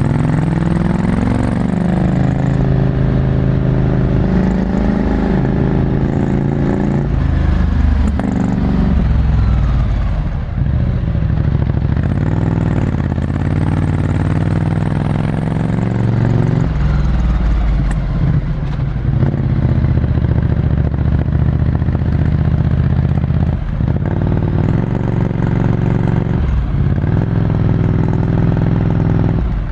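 Ducati Scrambler Desert Sled's air-cooled 803 cc L-twin through a full Termignoni exhaust, heard from the rider's seat while riding. The engine's pitch climbs and falls repeatedly as it accelerates and backs off, with short drops in revs several times.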